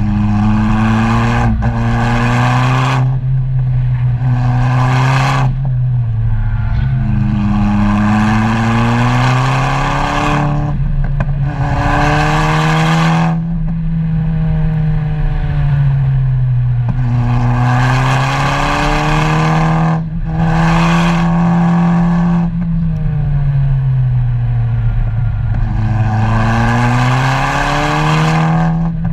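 Car engine heard from on board, its revs climbing and dropping every few seconds as it accelerates and backs off.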